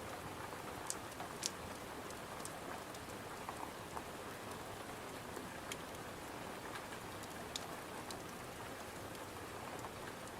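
Steady rain falling, an even hiss with scattered sharp ticks and pops, about a second in, around a second and a half, and again near six and eight seconds.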